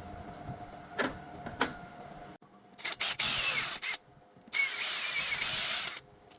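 A handheld power tool run in two bursts of about a second each, with a high squeal in the noise, after a few sharp clicks over a steady workshop hum.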